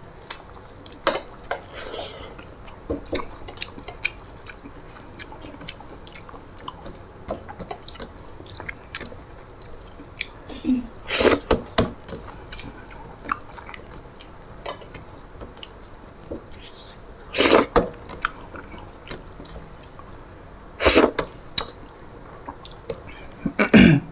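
Close-miked eating by hand: chewing, with small wet mouth clicks throughout and a few louder smacks spaced several seconds apart. Fingers are mixing rice against steel plates.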